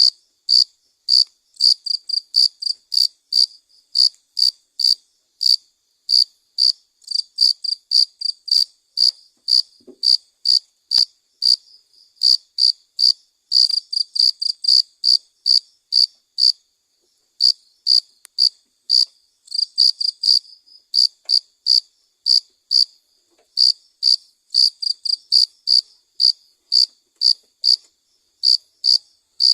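Crickets chirping, short high chirps repeating about two to three times a second, several callers overlapping.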